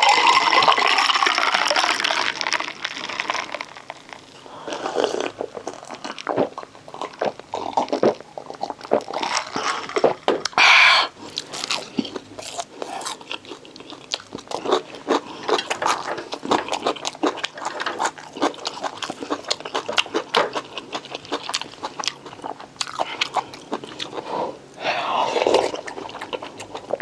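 A person eating close to the microphone: a run of wet chewing and smacking clicks, with a longer slurp about eleven seconds in and another near the end.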